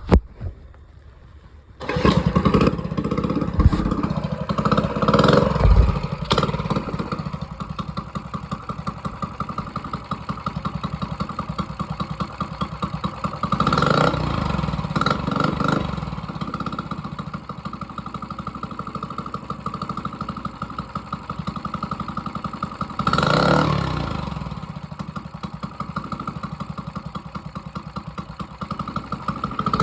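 Small 98cc four-stroke mini bike engine catching about two seconds in and then running steadily, with two brief swells of throttle.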